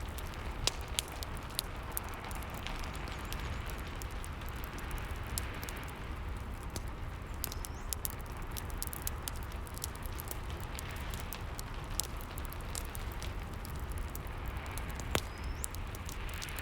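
Fireplace crackling over a steady hiss of rain, with sharp irregular pops and a low rumble underneath.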